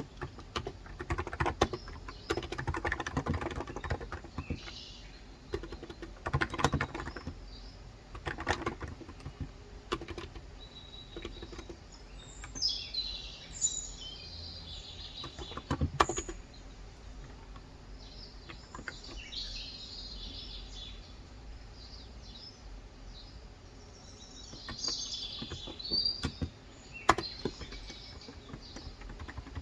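Typing in bursts on a Cox Endeavor electrostatic capacitive (non-contact) 35 g tenkeyless keyboard, with birds chirping over it through the middle and later part.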